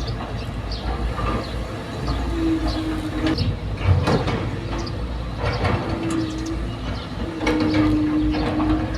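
Excavator at work: a steady low engine rumble with repeated metal clanks and knocks, and short high squeals held for about a second at a time, the loudest clank about four seconds in.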